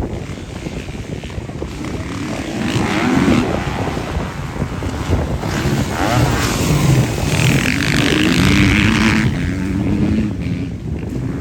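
Motocross dirt bike engines revving on the track, their pitch repeatedly rising and falling as they accelerate and shift, with the loudest stretch about two-thirds of the way through.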